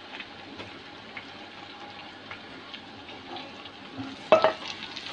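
Hot oil sizzling and crackling as minced beef is tipped into a pot of browned onions. A sharp knock about four seconds in.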